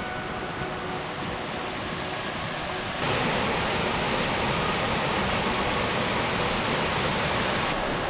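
A waterfall rushing in a steady, even noise. About three seconds in it suddenly gets louder and brighter, then holds steady.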